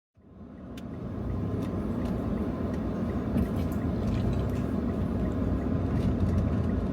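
Steady low rumble of a motor vehicle or road traffic, fading in over the first second, with a few faint scattered ticks.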